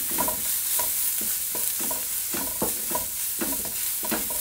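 Sliced onions and ginger-garlic paste frying in coconut oil in a nonstick pan, stirred with a wooden spatula: a steady sizzle with irregular scraping strokes a few times a second.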